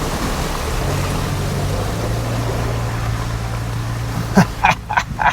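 Ford Bronco driving on a wet dirt road just after a creek crossing: steady tyre and water noise over a low engine hum. Near the end a dog barks about four times in quick succession.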